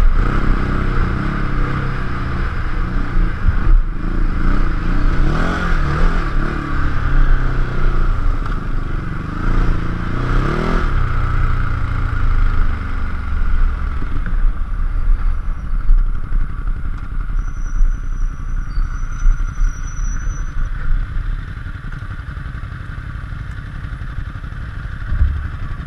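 Ducati Hyperstrada's L-twin engine under way on a gravel trail, its pitch rising and falling as the throttle opens and closes, heard from a helmet-mounted camera. About halfway through it settles to a lower, steady rumble as the bike slows.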